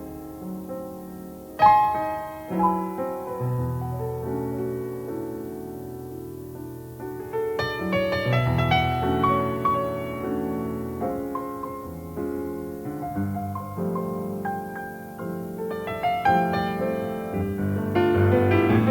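Jazz piano played with no drums heard: sustained chords and flowing melodic lines, with a hard-struck chord about two seconds in and the playing growing louder and busier near the end.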